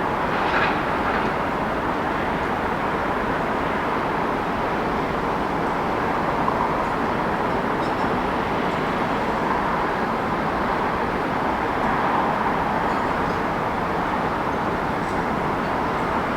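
Steady wash of city traffic noise with no single vehicle standing out.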